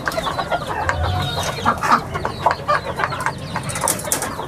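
Chickens in a pen clucking, with many short overlapping calls.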